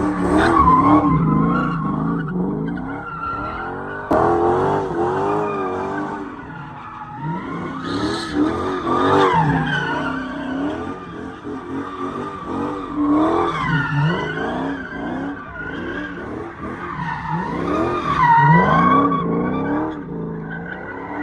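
Car tyres squealing and skidding under a revving engine, the screech sliding up and down in pitch without a break.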